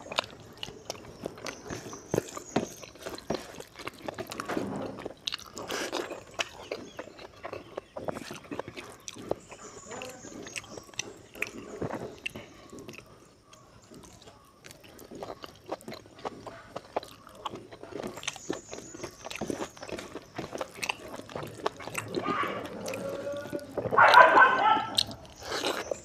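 Close-miked chewing and wet lip smacking of a person eating rice and fried pork by hand, with many small mouth clicks. A brief louder call near the end.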